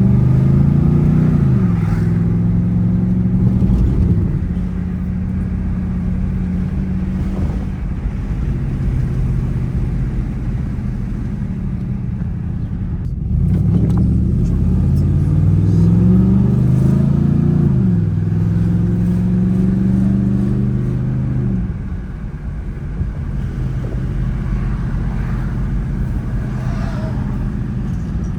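Dodge Charger R/T's 5.7-litre Hemi V8 accelerating hard twice from the driver's seat: each time the engine note climbs, drops at an upshift and climbs again, then settles into a steadier, quieter cruise.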